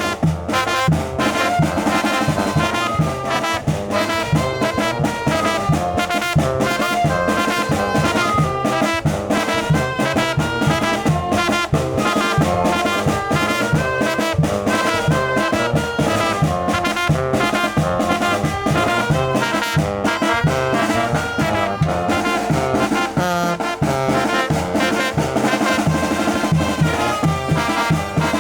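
Mexican brass band (banda de viento) playing a chilena: trumpets and trombones carrying the tune over steady, regularly struck percussion.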